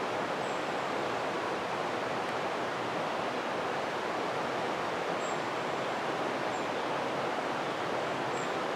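Creek running loudly: a steady rush of flowing water.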